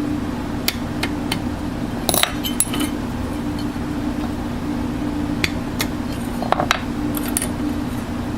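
Small metal parts clinking and tapping as they are handled, in scattered clusters, over a steady mechanical hum.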